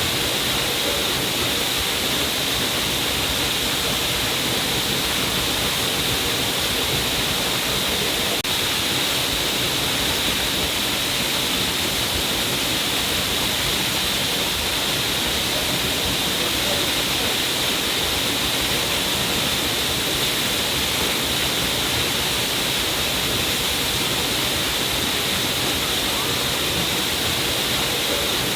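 A stream of water falling down a cliff face, splashing in a steady, unchanging rush.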